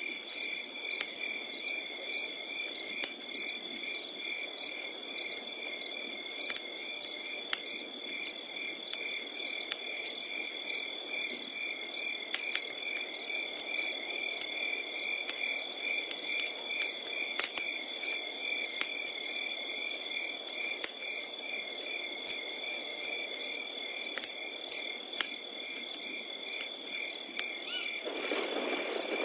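Crickets chirping in a steady rhythm of about two to three chirps a second over a continuous high insect trill, with the scattered sharp pops and low hiss of a wood campfire crackling.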